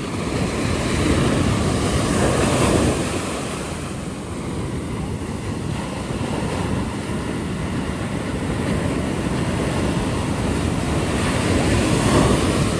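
Ocean surf washing onto a beach, swelling twice: about one to three seconds in and again near the end. Wind buffets the microphone throughout.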